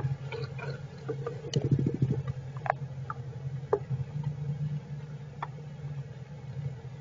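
Sparse small taps and ticks in a squirrel shelter, with a quick run of rapid scratching or ticking about a second and a half in, over a steady low hum.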